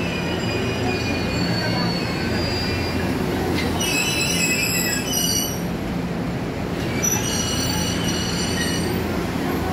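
E257 series electric train pulling out of the station with a low steady running hum, its wheels squealing in high tones, first about four seconds in and again about seven seconds in.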